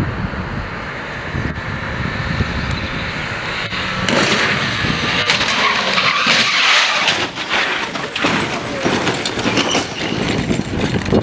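A car being driven hard, with tyres skidding; the noise grows louder and harsher about four seconds in.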